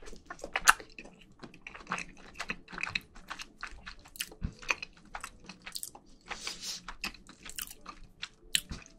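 Close-miked chewing of a mouthful of rice and marinated raw crab: a string of short, sharp mouth clicks and smacks.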